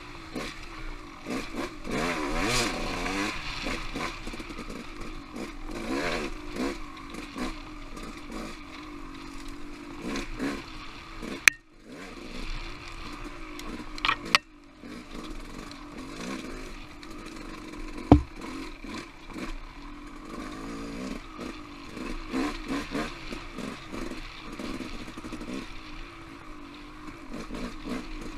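Off-road motorcycle engine running on trail, its revs rising and falling as the throttle is worked. Three sharp knocks stand out, about 11, 14 and 18 seconds in.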